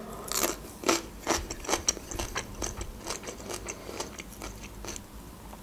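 Close-miked chewing of a fresh cucumber slice: a run of irregular crisp crunches and wet clicks.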